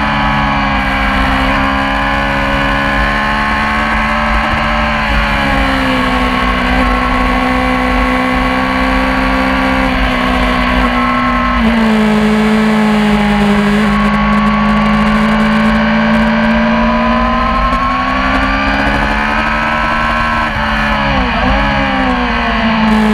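Yamaha R6 600 cc inline-four race engine running hard, its pitch rising and falling with the revs. The pitch jumps abruptly at gear changes about six and twelve seconds in, and briefly dips and recovers near the end.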